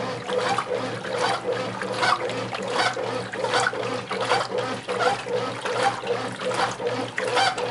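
Brastemp 8 kg top-loading washing machine agitating a load in water before the long soak: the motor hums steadily while the water sloshes in regular surges, about two a second.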